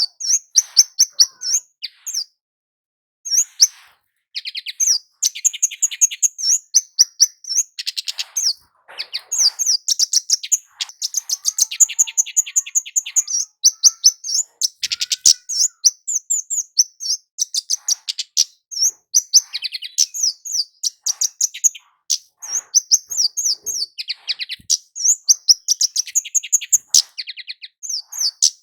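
Javan flowerpecker (kemade jawa) calling and singing: rapid runs of thin, high ticking notes strung into short trilled phrases, repeated over and over with brief pauses.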